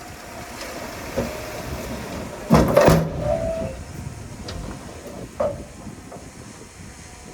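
Heavy earthmoving machinery running, with a loud sudden burst of clanking and hiss about two and a half seconds in and a shorter sharp clank about five and a half seconds in.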